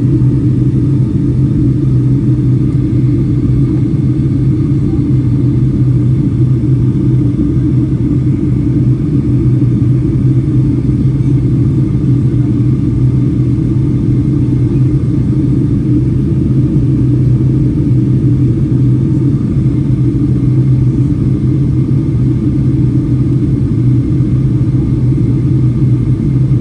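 Boeing 757-300 airliner's steady low rumble of engines and airflow: an even drone that holds the same pitch and level throughout.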